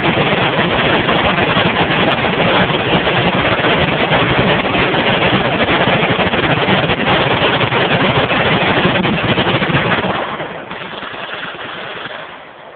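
Many machine guns firing at once, a dense continuous roar of overlapping shots that starts suddenly. About ten seconds in it thins and drops off as the guns cease fire.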